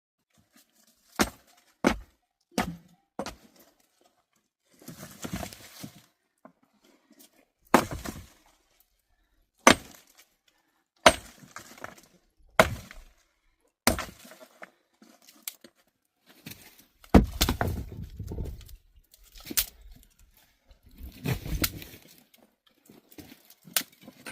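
A series of about a dozen sharp, irregular knocks and clinks of hard objects struck or set down, with rustling and scraping between them.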